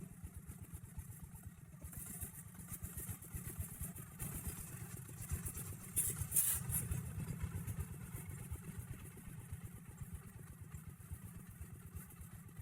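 Log-hauling tractor's engine running steadily with a rapid low chugging. A brief hiss cuts in about six seconds in.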